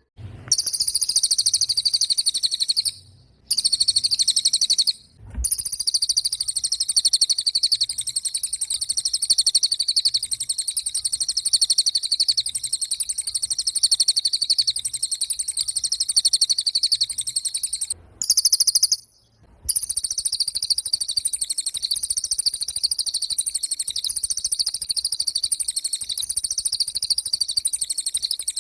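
Cililin bird singing a continuous high, very fast chattering trill, broken by brief pauses about three, five and eighteen seconds in.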